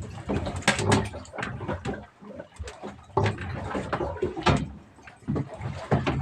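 Irregular knocking and clattering, a run of sharp knocks at uneven intervals over a low rumble.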